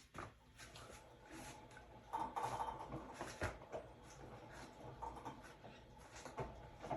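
Hotpoint-Ariston RSG 825 J washing machine in its wash cycle: the drum turning, with wet laundry tumbling and sloshing in irregular swishes, louder in the middle stretch.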